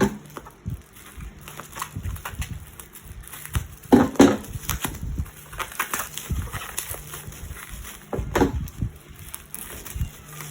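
Plastic packaging and card sleeves crinkling and rustling with small clicks as photocards are handled and unwrapped, with two louder bursts about four and eight seconds in.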